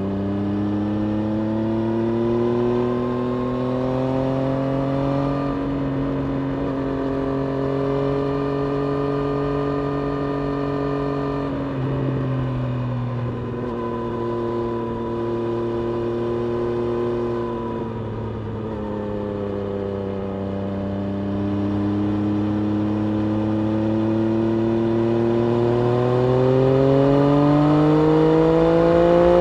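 Triumph Street Triple RS 765 cc inline-three engine under way, holding a steady note that rises slowly at first. Its revs drop in two steps, about twelve and eighteen seconds in, then climb steadily to the end.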